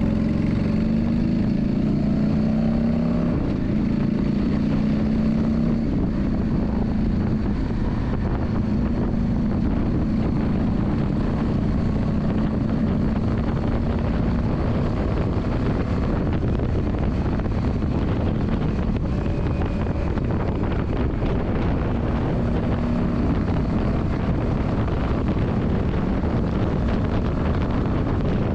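Yamaha Drag Star 400's air-cooled V-twin running on the move, with heavy wind noise on the microphone. The engine note stands out plainly only in the first few seconds and briefly near the end; otherwise the wind rumble covers it.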